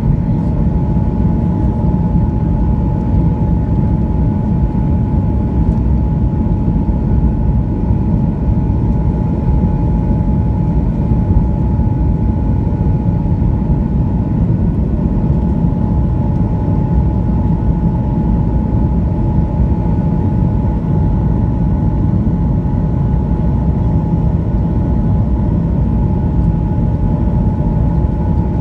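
Boeing 737-900ER cabin noise: a steady low rumble of engines and airflow with a constant whine from the CFM56 engines, unchanging throughout.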